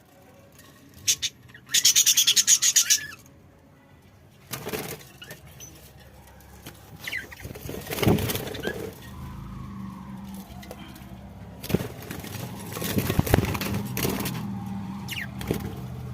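Budgies flapping their wings in a loud burst of rapid beats about two seconds in, with a few short chirps later. A low steady hum runs under the second half.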